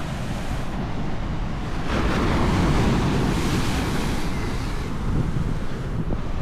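Atlantic Ocean surf: a wave breaks and washes in about two seconds in, rising and then easing off. Wind buffets the microphone throughout.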